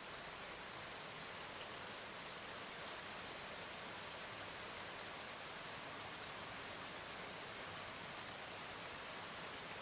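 Steady rain falling, a quiet even hiss of drops with no breaks or thunder claps.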